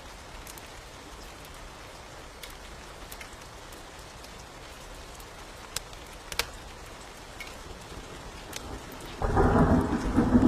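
Steady rain hiss with a few sharp pops, then a sudden loud clap of thunder about nine seconds in that rumbles on.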